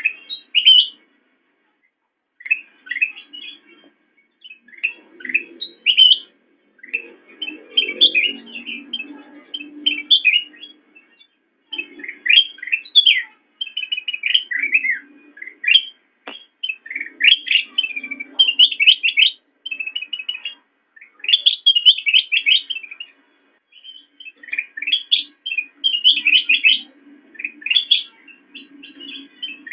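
A caged kutilang emas, a bulbul, singing a long string of short, quick chirping and twittering phrases, each a second or two long, broken by brief pauses.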